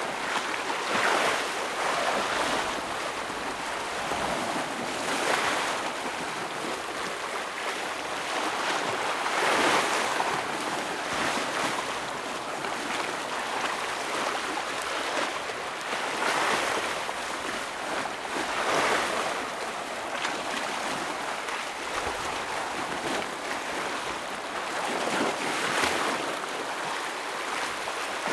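Ocean waves breaking and washing against rocks, a continuous rushing surf with louder surges every few seconds.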